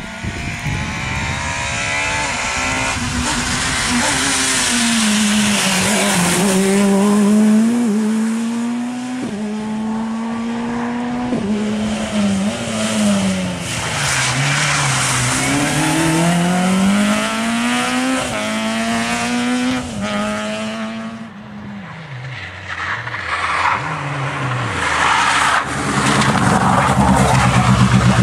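Rally car engines at full throttle, the pitch climbing and then dropping sharply at each gear change, then easing off and rising again through corners. The engine goes quieter about three-quarters of the way through, and another engine rises in pitch near the end.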